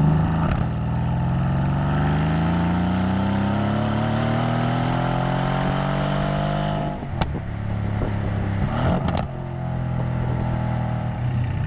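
Mercedes-AMG C63 S coupe's twin-turbo V8 accelerating, its pitch climbing steadily for about six seconds. The pitch then drops suddenly with a sharp crack from the exhaust, more cracks follow a couple of seconds later, and the engine settles into steady cruising.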